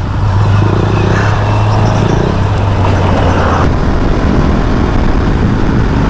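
Motorcycle engine running steadily on the move, with road and wind noise. About two-thirds of the way in, the steady engine hum gives way to a broader rushing noise.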